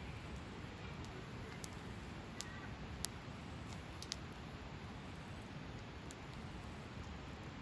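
Hardwood campfire crackling: about five sharp pops and snaps, the loudest about three seconds in, over a low steady rumble.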